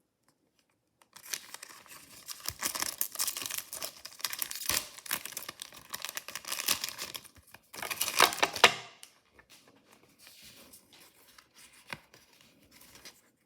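Mystery-toy packaging being torn open and crinkled by hand for several seconds, loudest just before it stops, followed by faint light handling sounds.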